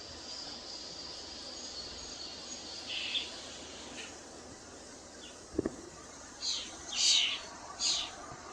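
Wild birds calling: a few short, high calls, then three louder calls in quick succession near the end, with a brief knock just past halfway.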